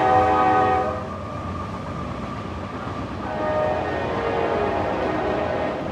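Train horn sounding two blasts: the first cuts off about a second in, the second starts about three seconds in and holds until near the end, over the low rumble of the train rolling by.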